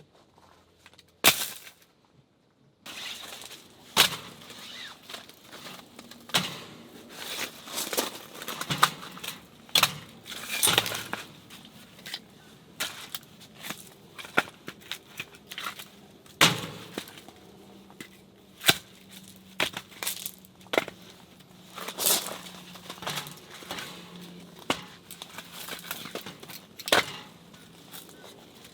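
Firewood giving off irregular sharp knocks, snaps and cracks, a few of them loud, as a wood stove is being started.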